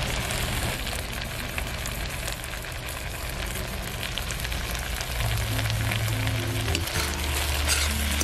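Onion, capsicum and paneer frying in oil in a wok, a steady sizzle that grows a little louder and crackles more in the second half, under background music with held low notes.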